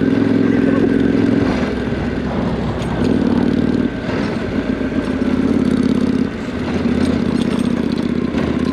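Motorcycle engine running under way on a dirt road, its note dipping briefly three times as the throttle is eased, with wind and road noise over it.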